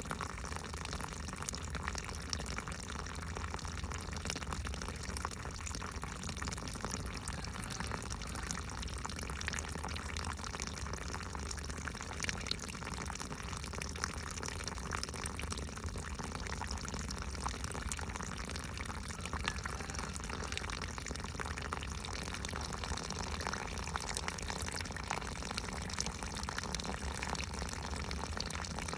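Water running and trickling steadily, with many small drips and splashes.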